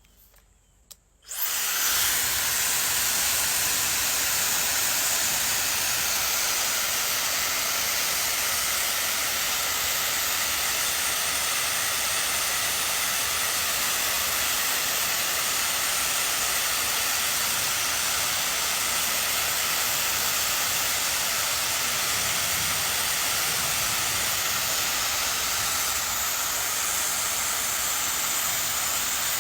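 Handheld hair dryer switched on about a second in, then running steadily with an even rush of air.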